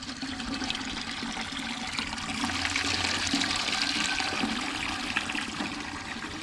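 Water running steadily into a scalder pot as it is filled, a rushing hiss that swells in the middle, with a steady low hum underneath.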